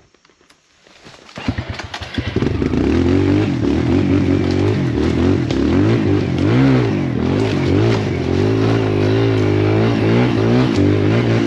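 Kawasaki KLX140L dirt bike's single-cylinder four-stroke engine starting about a second in, sputtering briefly before it catches, then running with its pitch rising and falling as the throttle is worked.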